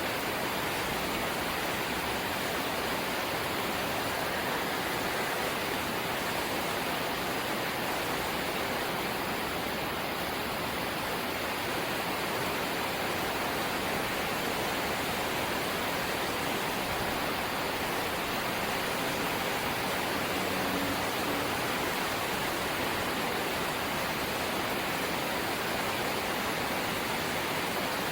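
Rain on a corrugated zinc roof: a dense, steady rush with no single drops or knocks standing out.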